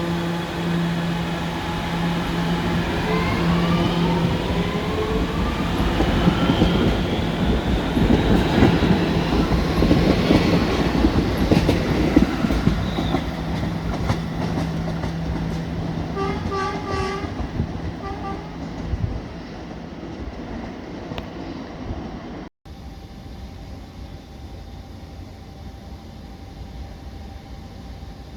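Staten Island Railway electric train pulling away from a station: the traction motors whine in several tones that rise in pitch as it speeds up, over the rumble of wheels on the rails. About 22 seconds in the sound cuts to a quieter, steady train noise.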